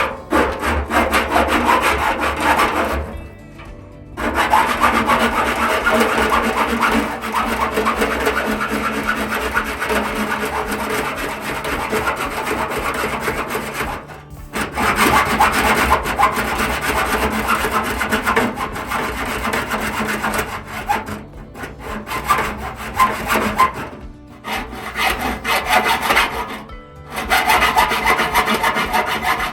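Hand saw cutting through wood in long runs of rapid rasping strokes, pausing briefly a few times.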